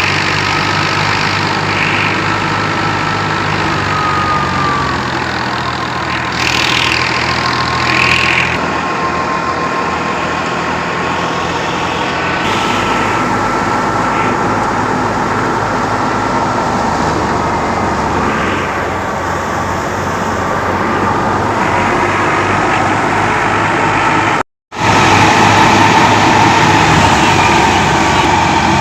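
New Holland 480 tractor's diesel engine running steadily, with a brief gap of silence about 24 seconds in.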